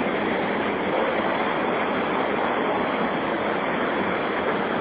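Steady rushing of water from the Cachoeira do Santo Antônio rapids, an even noise with no rhythm or pitch and no break.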